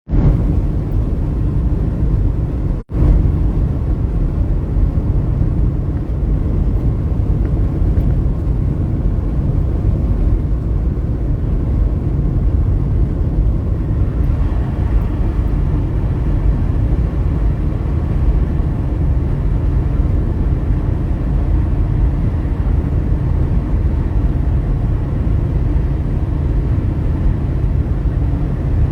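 A steady low rumble that cuts out for a moment about three seconds in.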